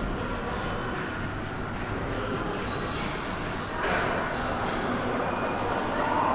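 Steady mechanical rumble with short high squeaks scattered through it, growing a little louder about four seconds in.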